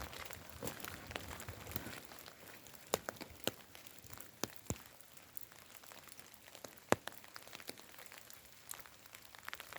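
Light rain: irregular, scattered sharp drops tapping close by over a faint steady hiss, with the loudest drop about seven seconds in.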